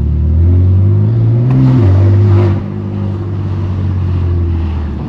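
BMW F80 M3 Competition's S55 twin-turbo straight-six on a straight-pipe exhaust, revs climbing under acceleration for about two seconds, then dropping back sharply; the loudness falls away and the engine settles into a steady lower drone.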